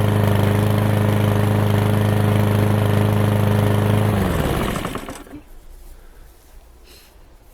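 Lawn mower engine running steadily at a constant speed, then winding down with falling pitch about four seconds in and stopping.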